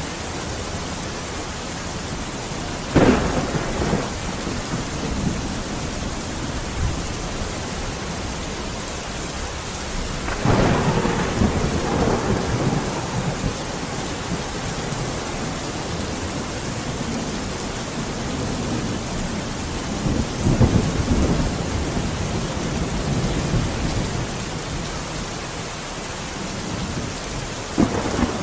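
Steady heavy rain with claps of thunder: a sharp crack about three seconds in, a longer rumbling peal around ten seconds, another rumble around twenty seconds and a fresh crack near the end.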